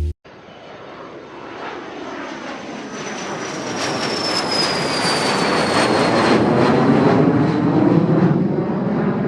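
Airplane passing low overhead: its engine noise swells louder over several seconds, with a high whine sliding down in pitch as it goes by.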